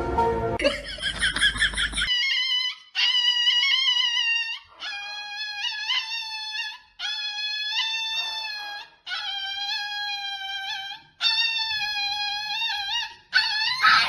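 A dog howling: six long, high, drawn-out howls in a row, each wavering in pitch at its end, with short breaks between them. Music plays briefly before the howls start.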